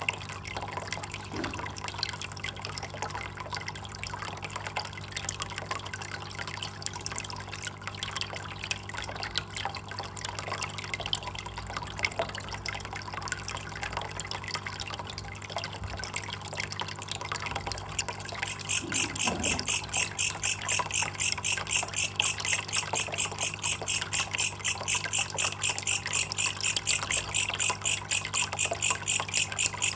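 Water trickling and dripping. About two-thirds of the way in, a rapid, even pulsing chirp starts and keeps going: the call of a belalang kecek, a katydid.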